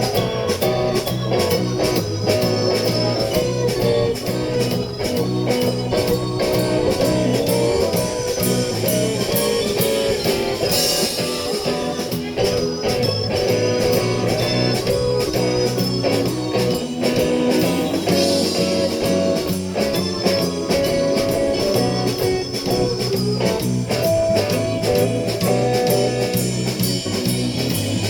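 Live blues-rock band playing an instrumental passage, electric guitar over bass and a steady drum beat.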